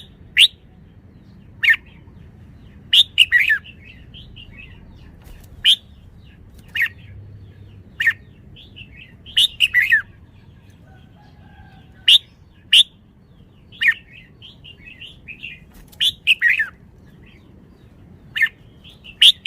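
Red-whiskered bulbul calling: short, loud, clear chirping phrases every second or two, with softer chattering notes in between.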